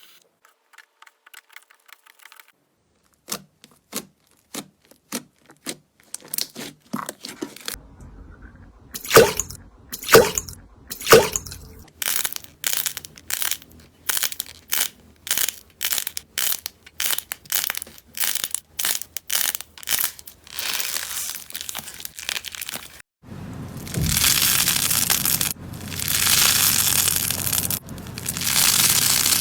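Slime being poked, squeezed and pressed close to the microphone: a long run of short sharp pops and clicks, then, from about 23 s in, longer stretches of crackling, crunching noise as it is kneaded and stretched.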